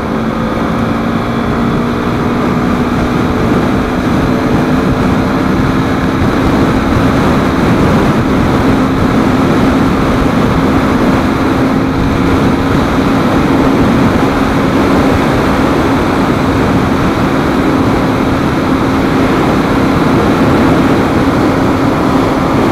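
KTM 390 Duke single-cylinder engine running at highway cruising speed, its note creeping slowly up in pitch, under heavy wind rush on the helmet-mounted camera's microphone.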